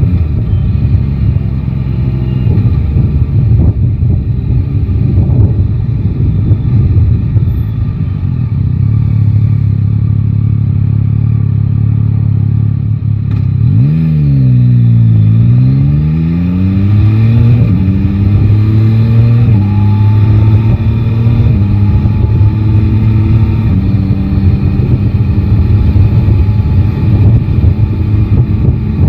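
Yamaha Tracer 9 GT's inline-three engine running under way. About halfway through, the revs jump sharply and fall away. The pitch then climbs in several steps as the bike accelerates through the gears.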